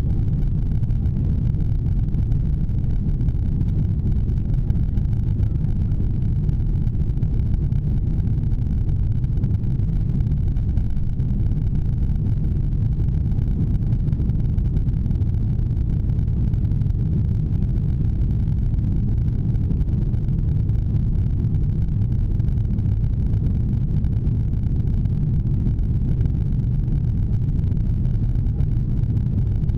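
Steady low rumble of an Airbus A340's engines and rushing air, heard inside the passenger cabin during takeoff.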